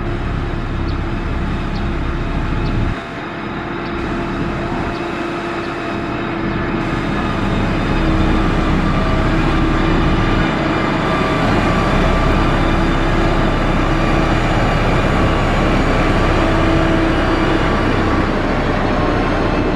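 Diesel engine of a heavy road-construction machine, likely the motor grader, running under load with a steady whine. It drops away sharply about three seconds in and builds louder again from about eight seconds.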